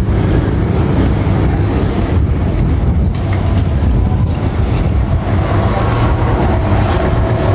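Steady low rumble of a motor vehicle's engine and road noise, heard from on or beside the moving vehicle.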